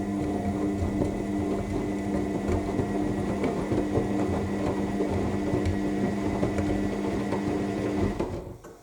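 AEG L7FE7461BI washing machine turning its drum in the main wash: a steady motor hum with a thin high whine over the tumbling of wet laundry. The drum stops near the end, the pause between tumbles.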